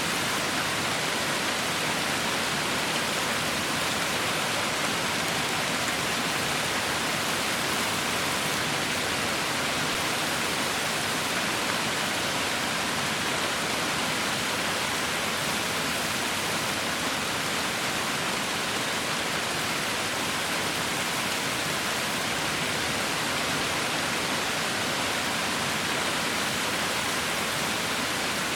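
Heavy rain falling in a steady, even hiss with no breaks or distinct drops.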